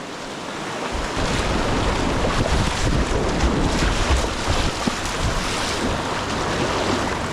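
River whitewater rushing and splashing around a kayak, with wind rumbling on the microphone from about a second in.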